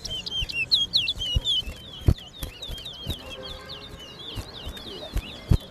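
Towa-towa finch song: a rapid run of sharp, hooked chirping notes, several a second, loudest in the first two seconds and continuing more thinly after. A couple of sharp knocks sound at about two seconds in and near the end.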